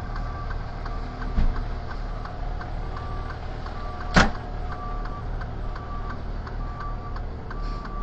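Truck engine idling while the indicator flasher ticks steadily, about twice a second. A dull knock comes about a second and a half in, and a sharper, louder click just after four seconds.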